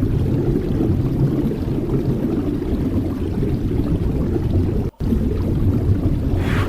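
Sea waves rumbling steadily, heard as a low dense wash, with a brighter rush of a wave breaking near the end. The sound cuts out for an instant about five seconds in.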